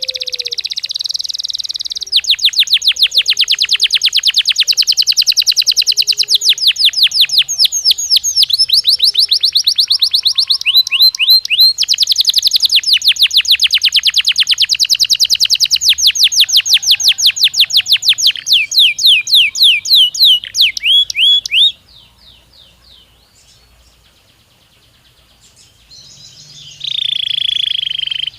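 Belgian canary singing: long, fast trills of rapidly repeated high notes, one rolling into the next. About twenty-two seconds in the song breaks off to faint soft twittering for a few seconds, then resumes loudly near the end.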